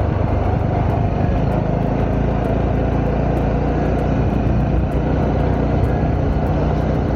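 Honda CB125R's single-cylinder 125cc four-stroke engine running at a steady pace while riding, with wind and road noise.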